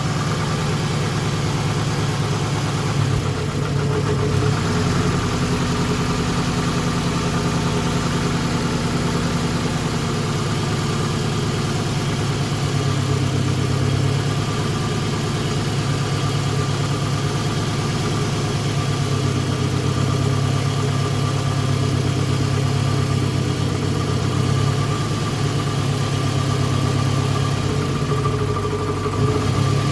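2008 Toyota Camry engine idling steadily with a misfire. The miss comes from a dead ignition coil on the number 4 cylinder.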